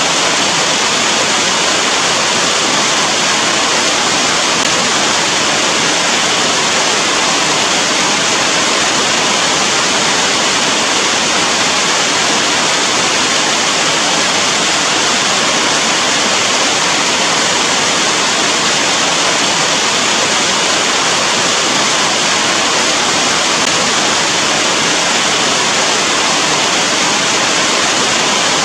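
Steady rain: a loud, even hiss with no distinct drops, thunder or changes.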